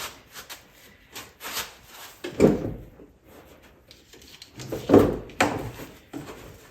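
Irregular knocks, scrapes and rubbing of parts and tools being handled during ATV repair work, with two louder clunks about two and a half and five seconds in.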